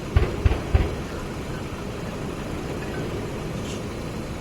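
Three gunshots in quick succession, about a third of a second apart, from live-fire military training, over a steady low rumble.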